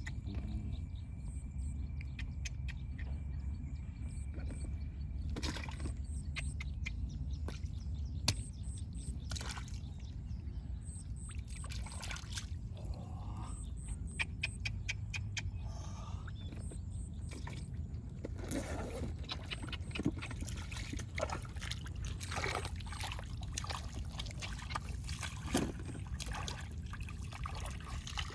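Water splashing and trickling in shallow water, with scattered short splashes and knocks over a steady low rumble, busier in the second half, as fish are caught by hand.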